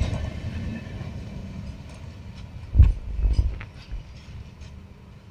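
Rumble of a passing train's wheels on the rails, fading away, with a sharp heavy thump about three seconds in and a few smaller ones just after.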